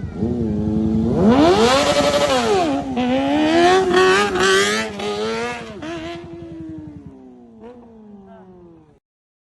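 Kawasaki ZX-25R's inline-four engine through a Yakuza Z1 aftermarket exhaust, revving hard. The pitch climbs steeply and drops back, then holds at high revs with quick dips. The sound fades away over the last few seconds and cuts off about a second before the end.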